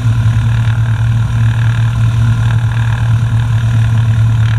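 Cessna 172 Skyhawk's four-cylinder piston engine and propeller idling, a steady low drone heard from inside the cockpit.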